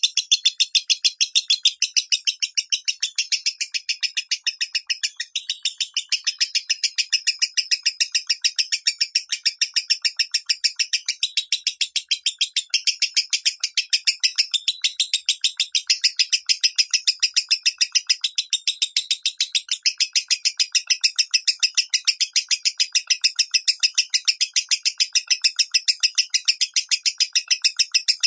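Lovebird singing continuous 'minor' song: an unbroken run of short, high, sharp chirps, about three to four a second, without pause.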